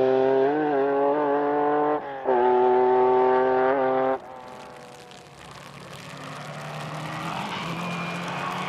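Rally car engine held at high revs in a steady note, with a brief lift off the throttle about two seconds in. About four seconds in it cuts abruptly to another rally car approaching, a rougher engine and tyre noise growing louder.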